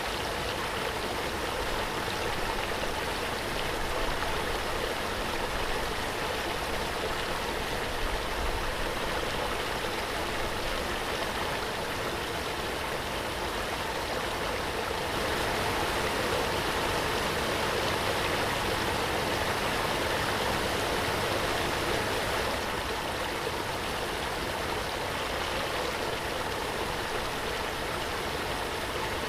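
Waterfall: water pouring and splashing in a steady rushing noise, swelling a little for several seconds about halfway through.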